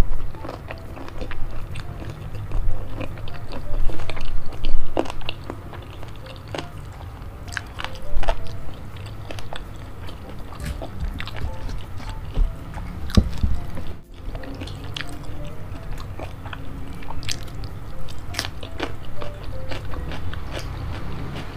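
Close-miked chewing and biting of boneless chicken feet in spicy sauce: wet, sticky mouth sounds with frequent sharp clicks and smacks, loudest about four to five seconds in.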